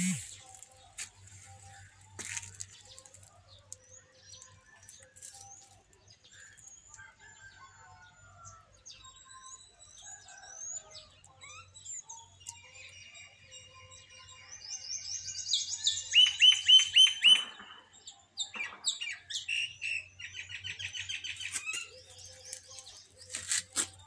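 Birds chirping and calling. A fast run of loud repeated chirps comes a little past halfway, and another quicker series follows it.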